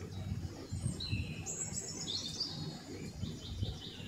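Small birds chirping in short high calls, busiest between about one and two and a half seconds in, over a low irregular rumble.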